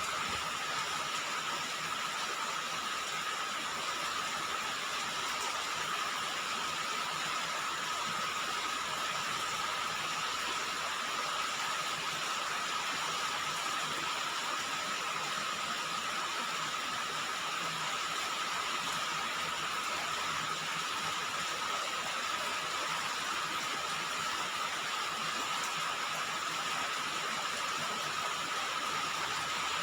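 Steady rain falling on a roof, an even, unbroken patter-hiss.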